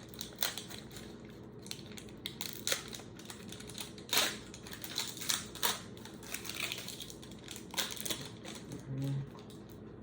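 Wrapper of a 1991-92 Upper Deck basketball card pack being opened and crinkled, with scattered sharp crackles and rustles and one louder crackle about four seconds in.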